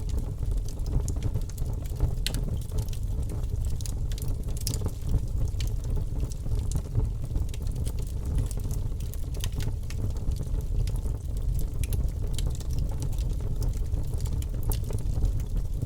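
Wood fire crackling, with many small irregular pops and snaps over a steady low rumble of the flames.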